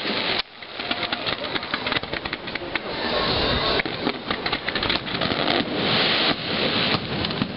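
Aerial fireworks display: a dense barrage of shells bursting, heard as a rapid stream of overlapping bangs and crackles. The loudness dips sharply about half a second in, then builds back up.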